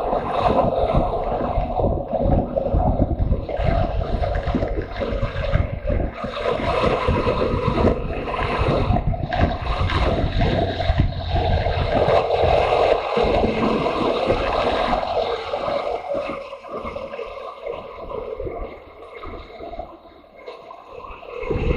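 Motorcycle engine running under way with heavy wind buffeting on the microphone. Near the end the engine sound and the wind ease off for a few seconds, then pick up again.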